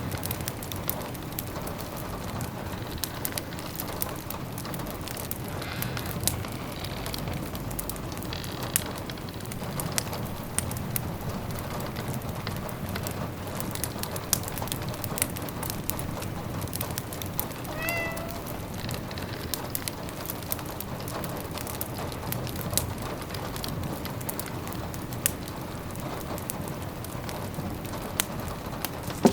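Steady rain pattering with the pops and crackles of a wood fire, and a cat giving short meows, the clearest about eighteen seconds in.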